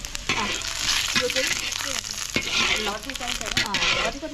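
Pieces of food sizzling in hot oil in a large black wok over a wood fire, stirred with a long wooden stick that scrapes and knocks against the pan now and then.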